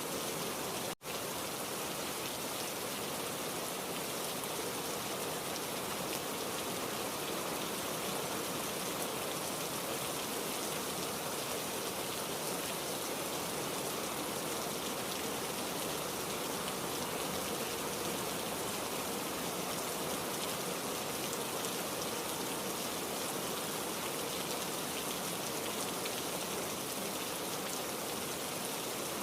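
Heavy rain falling in a dense, even hiss, with a split-second gap about a second in.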